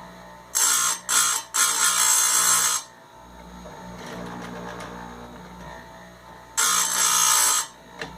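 Electric chainsaw-chain grinder running with a steady motor hum, its grinding wheel touching down on the chain's cutter teeth in loud bursts of grinding noise: three close together in the first three seconds, then another one about six and a half seconds in.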